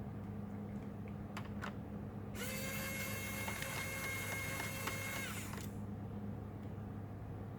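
Small electric screwdriver motor running steadily for about three seconds, after two light clicks, over a steady low hum.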